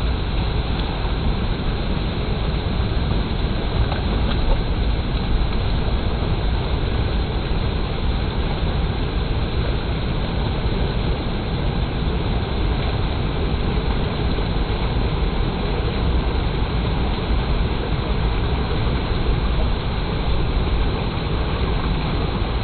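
Clear water flowing steadily, a continuous rushing with a heavy low rumble.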